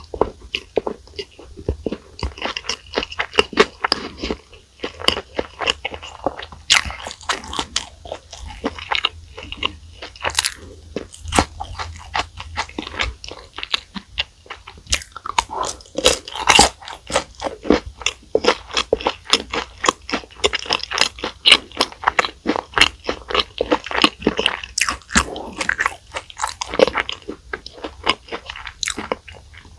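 Close-miked eating of burger and fried fast-food sides: continuous biting and chewing, with many sharp, crisp crunches coming irregularly throughout.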